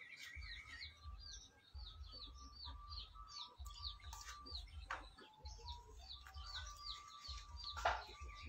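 Small birds chirping: a steady run of short, falling high chirps, about three a second, with a wavering warbled note in the first second, over a low rumble. A single short knock sounds near the end.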